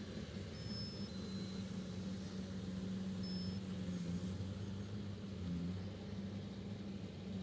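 Heavy diesel engine of earth-moving machinery running steadily with a low hum. A few faint, short high-pitched beeps sound in the first half.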